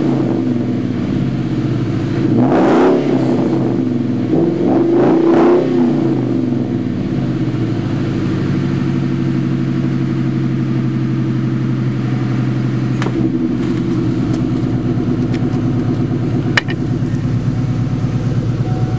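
1997 Mustang Cobra's 4.6-litre DOHC V8 running through BBK long-tube headers and an off-road mid-pipe, blipped on the throttle: one rev about two and a half seconds in and a couple more around five seconds in, then settling to a steady idle. A sharp click near the end.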